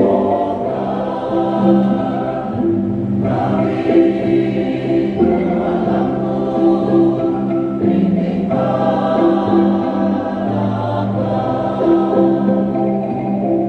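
Choir singing in harmony, accompanied by a kolintang ensemble of wooden xylophones.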